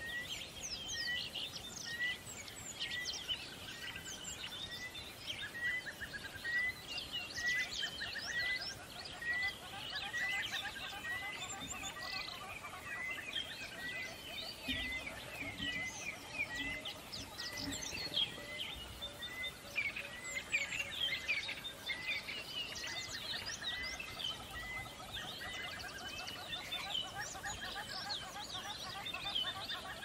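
Several wild songbirds singing and chirping together, with one bird repeating a short note over and over at a steady pace through most of it.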